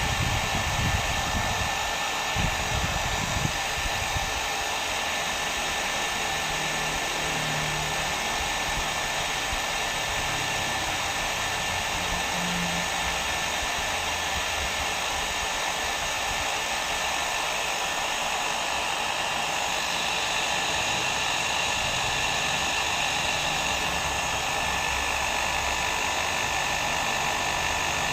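Hair dryer running steadily: a continuous blowing rush of air with a faint steady whine on top, and a few low bumps in the first few seconds.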